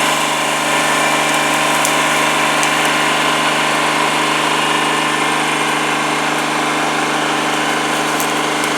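A vehicle engine running steadily at an even speed, close by and loud, with no revving.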